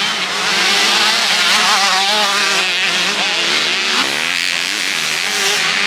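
Several motocross bikes of the 125/250 class racing, their engines revving up and down as they accelerate and shift. One engine climbs sharply in pitch about four seconds in.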